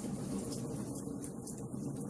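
Firewood burning in a fireplace: a steady low rush of flames with a few light crackles.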